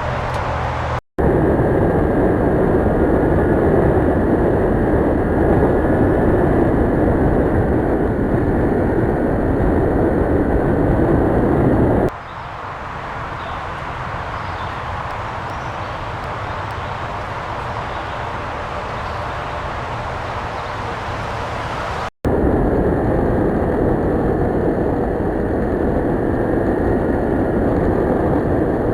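Steady rush of wind and road noise from a motorcycle on the move. It is broken twice by a split-second gap, and partway through it changes to a quieter, thinner rush.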